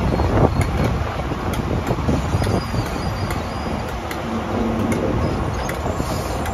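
High Speed Train running slowly, heard from an open window just behind its Class 43 power car: a steady low rumble of engine and wheels, with irregular light clicks about once a second.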